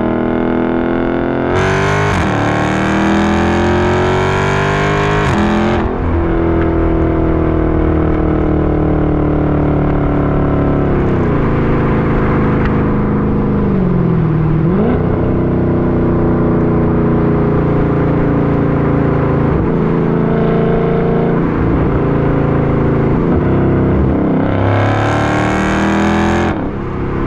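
Dodge Charger SRT 392's 6.4-litre HEMI V8 through a straight-piped exhaust (mid-muffler and resonator deleted, factory catalytic converters kept), driven. It makes a hard full-throttle pull about two seconds in, rising in pitch until a shift drops it. It runs steadier at part throttle through the middle, with the revs sagging and recovering, then makes another hard pull near the end.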